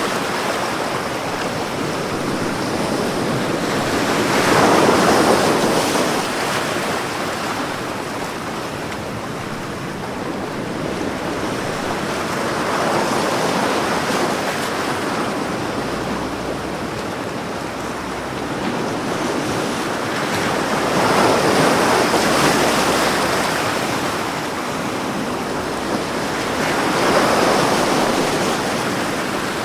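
Ocean waves breaking on a beach, a steady wash of surf that swells with each wave, about every six to eight seconds.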